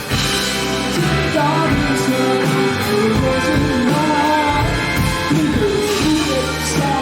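Indie rock band playing live, electric guitar, bass and drums together in a steady groove, with a bending lead melody line.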